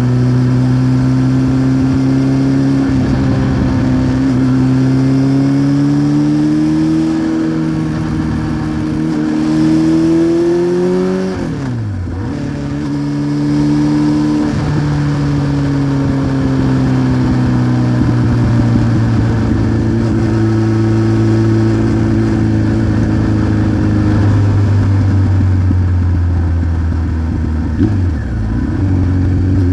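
Honda CBR900RR Fireblade's inline-four engine running through a Remus exhaust while riding. The revs climb steadily for about eleven seconds, drop sharply and pick up again, then ease slowly down, with another quick dip in revs near the end.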